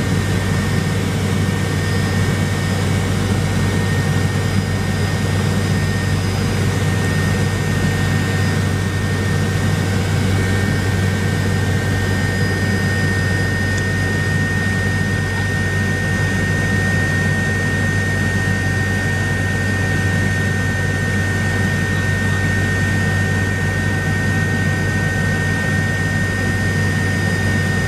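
Helicopter turbine engine and rotor running steadily, heard from inside the cabin: a constant low drone under a steady high whine.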